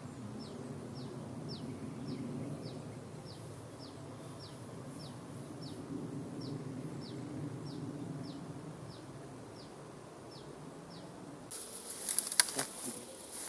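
Short high chirp, falling slightly in pitch, repeated evenly about twice a second: a small bird's call of the kind used to lure birds to glue sticks. It stops about eleven seconds in, when a sudden burst of rustling with several sharp cracks takes over, the loudest sound.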